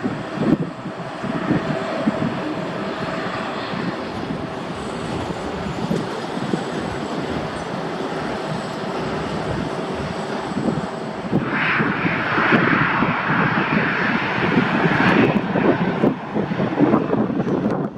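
Jet airliner engines running with a steady whine over a rushing noise. The sound swells into a louder, harsher hiss for a few seconds about two-thirds of the way through, then eases back.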